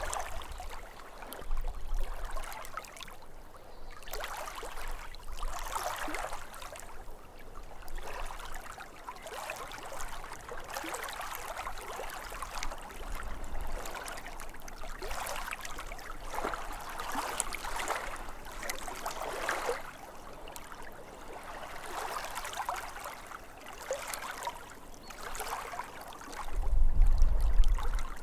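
Small waves lapping at a lake's edge, an uneven wash of splashes that swells and fades every second or two. Near the end a low rumble briefly becomes the loudest sound.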